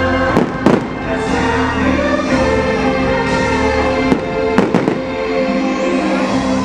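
Fireworks bursting in sharp bangs, a couple about half a second in and a quick cluster around four and a half seconds in, over loud orchestral show music.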